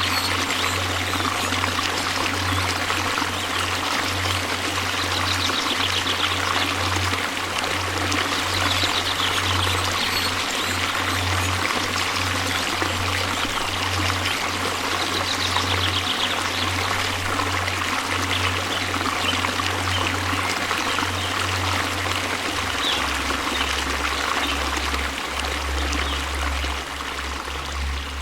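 Continuous rushing and splashing of a waterfall, steady throughout. Under it runs a low sustained hum, like a held bass note, that drops to a lower pitch about 23 seconds in.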